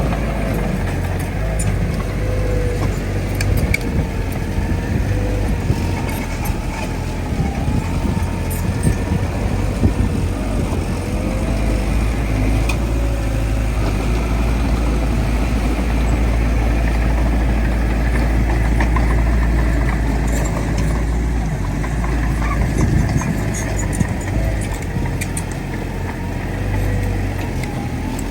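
Bulldozer's diesel engine running under load with a heavy low rumble, a thin whine that wavers up and down in pitch, and scattered clanks.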